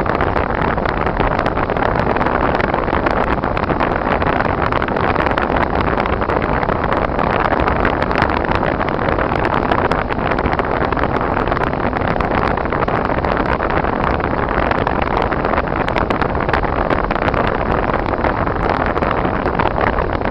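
Steady road noise inside a moving car: tyres running over a snowy road with the engine humming underneath, unbroken and even.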